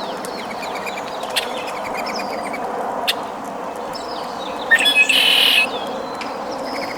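Wild birds chirping, with one louder, harsh call lasting about a second, about five seconds in.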